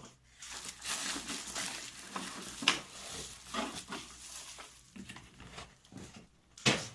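Packaging rustling and being handled as a boxed car armrest is unwrapped, with a few sharp knocks, the loudest about three seconds in and near the end.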